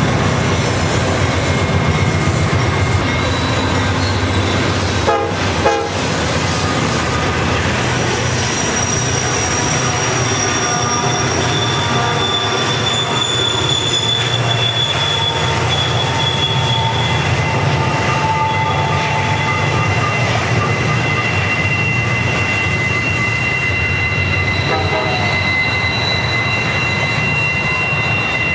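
Model diesel trains running on a club layout: a steady low rumble, with high squealing tones that come and go over it and a short rattle about five seconds in.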